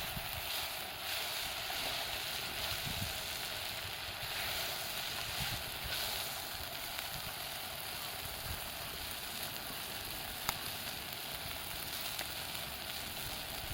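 Steady sizzling hiss from a campfire cookout, with one sharp crack about ten and a half seconds in.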